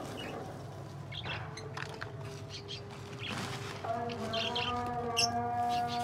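Pet birds chirping in short high notes, over a steady droning tone with several pitches that grows louder about four seconds in.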